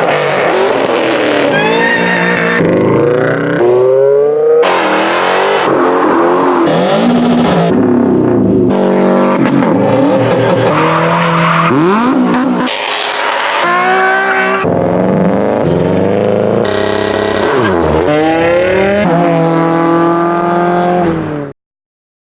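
A rapid string of short clips of performance car engines revving and accelerating, their pitch climbing and falling, with tyre squeal in places; each clip cuts abruptly into the next every second or two. The sound stops dead near the end.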